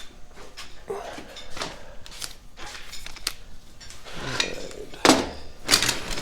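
Metal tractor parts and tools being handled on a shop bench: scattered clinks and knocks, with a sharper, louder knock about five seconds in and a burst of clatter near the end.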